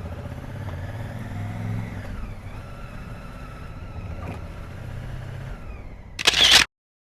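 Honda Africa Twin's parallel-twin engine running and accelerating, its pitch rising and then dropping at a gear change about two seconds in. Near the end there is a brief loud rush of noise, and then the sound cuts off abruptly.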